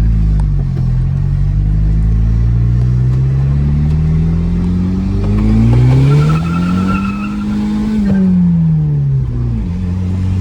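Car engine pulled hard under acceleration: the revs climb for several seconds, drop sharply at an upshift about five and a half seconds in, climb again, then fall away from about eight seconds in as the throttle is lifted.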